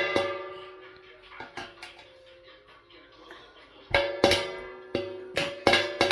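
A ringing metal object struck again and again, every hit ringing at the same pitch and fading away. There are a few hits at first and a quicker run of seven or so near the end.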